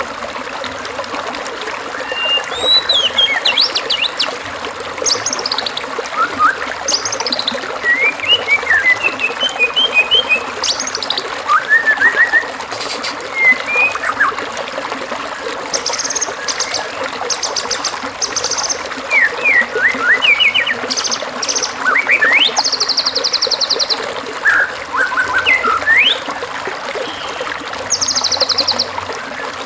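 White-rumped shama singing a varied song of short whistled phrases mixed with fast buzzy trills, a masteran recording of the imitated song material shama keepers train their birds with. A stream runs steadily beneath it.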